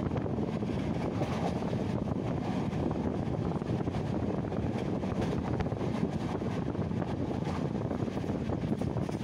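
Wind rushing steadily past a moving train's window, over the train's low running noise.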